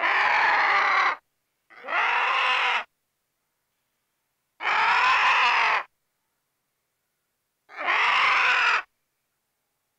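Vulture giving a harsh, raspy call four times, each lasting about a second, with silent gaps between.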